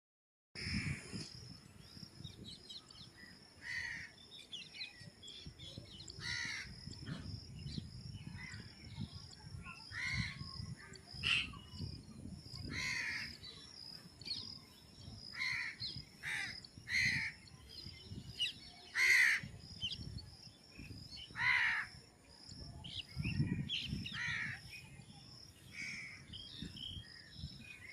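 Crows cawing repeatedly, single harsh calls every second or two, over a steady high-pitched insect drone.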